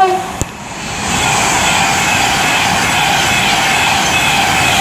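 Class 390 Pendolino electric train running through the station at speed: a loud rush of wheel and air noise that builds over the first second, then holds steady as the coaches pass.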